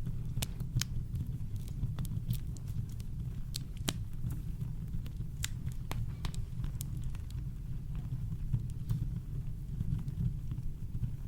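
Campfire crackling: sharp wood pops over a steady deep rumble of brown noise. The pops come thick for the first several seconds, then thin out.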